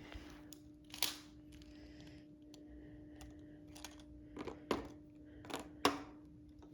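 A few light clicks and taps of toy monster trucks being handled and set down: one about a second in and several between four and six seconds, over a faint steady hum.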